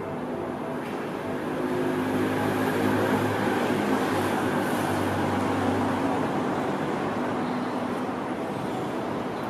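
Seibu 20000 series electric train running in toward the platform: wheels on rail and a steady low motor hum, getting louder over the first three seconds and then holding.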